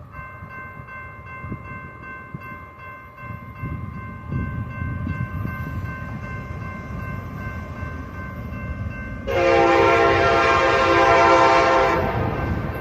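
Diesel locomotive air horn sounding one long blast of nearly three seconds near the end, over the low rumble of an approaching freight train. A steady high ringing of several tones runs underneath.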